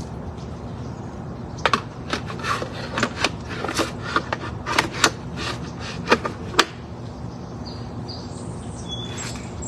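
Irregular sharp clicks and knocks, a dozen or so over about five seconds, from pots and tools being handled while repotting plants; a few faint high chirps near the end.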